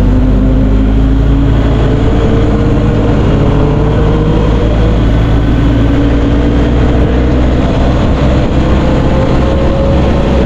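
Motorcycle engine running under way, its pitch dipping slightly and then rising toward the end, under a heavy rush of wind and road noise.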